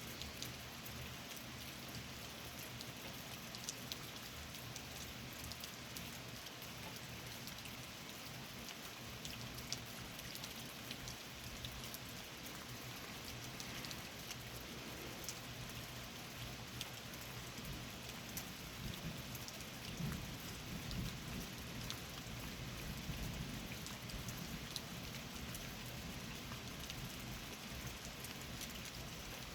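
Steady rain falling, with scattered droplet ticks. In the second half, a low rumble of distant thunder swells and lingers.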